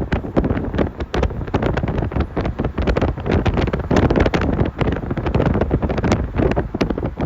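Wind blowing across the microphone: a steady, dense rush broken by many irregular buffeting thumps.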